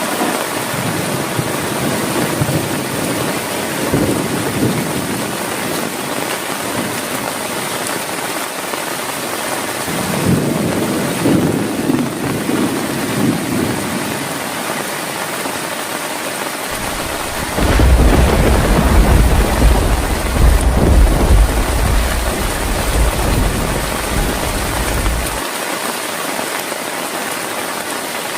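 Heavy rain falling steadily, with thunder rumbling twice: a low roll about ten seconds in, then a longer, louder, deeper roll from about seventeen to twenty-five seconds in.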